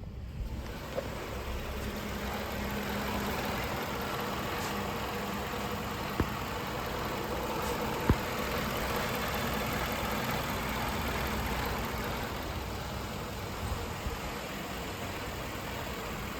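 2017 Land Rover HSE engine running steadily at idle, coming up about half a second in, with a few sharp clicks over it.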